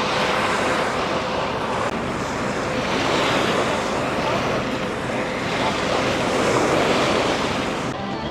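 Ocean surf washing onto the beach, an even rushing noise that swells twice, with wind buffeting the microphone.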